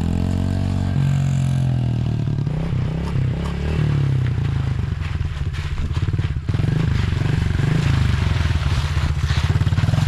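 Small 110cc single-cylinder four-stroke dirt bike engine being revved as the rider tries to pull a wheelie. The pitch swells and drops in the first two seconds, then the engine holds a steady high-rev note.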